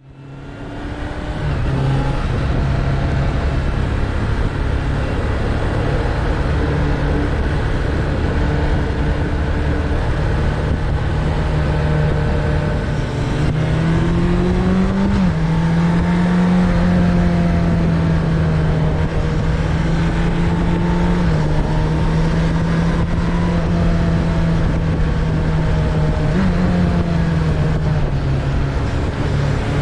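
Suzuki Bandit 600's inline-four engine running on the road, over a rush of wind noise. The sound fades in at first, then holds a steady engine note. About halfway through the pitch climbs and drops back at a gear change, and it rises and falls again near the end.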